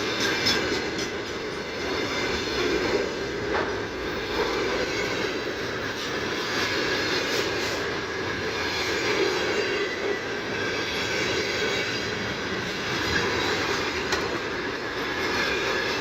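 Freight train wagons rolling past on the track: a steady rumble of wheels on rails, with a few faint clicks.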